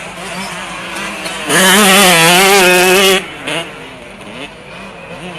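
Motocross bike engines running at a distance, then one dirt bike loud and close for nearly two seconds, its engine note wavering up and down with the throttle before dropping away suddenly. A short throttle blip follows.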